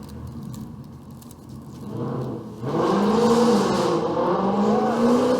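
A car engine on the street accelerates, getting loud about halfway through, its pitch rising, dipping and rising again as it revs.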